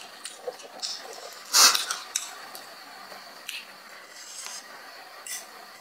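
Close-up eating sounds: a person chewing instant noodles, with scattered small wet clicks and one louder burst about a second and a half in. Light clinks of a fork against a bowl mix in.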